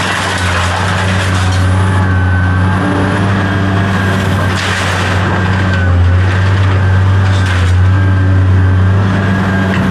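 Vehicle engine running at a steady speed, a deep even drone.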